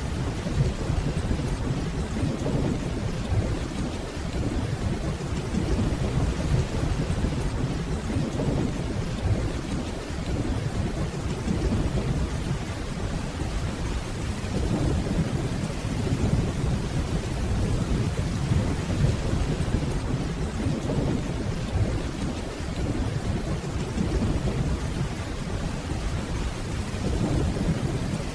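Steady rainfall with distant thunder rumbling low and continuously, swelling and easing in slow waves.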